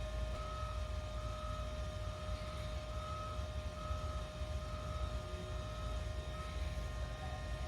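A machine running steadily: a low rumble and a steady hum, with a higher tone that pulses a little over once a second.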